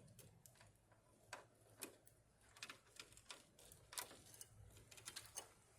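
Faint, irregular metallic clicks and clinks of hand tools and parts being worked loose under the truck's hood, the loudest about four seconds in.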